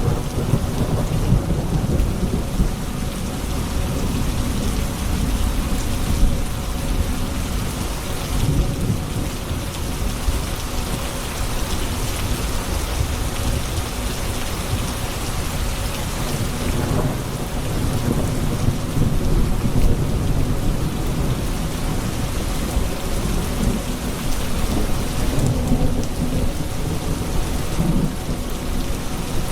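Thunderstorm: steady heavy rain with low rumbling thunder that swells and fades.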